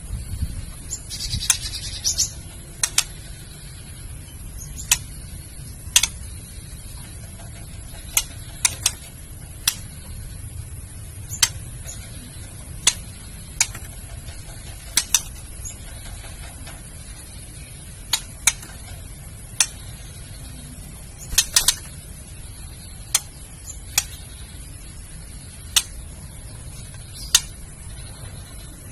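Female white-rumped shama giving sharp, clicking 'kretekan' calls, single or in quick pairs and clusters every second or two, over a steady hiss.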